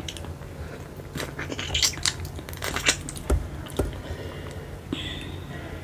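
Close-miked chewing of sea snail meat: wet mouth clicks and smacks, thickest between about one and four seconds in.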